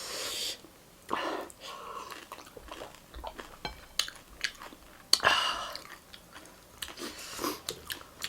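Close-up eating sounds: food being chewed with irregular sharp crunches and wet mouth noises.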